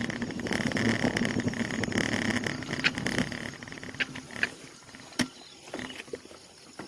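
A motor vehicle running, then fading away after about three seconds, followed by a few sharp clicks.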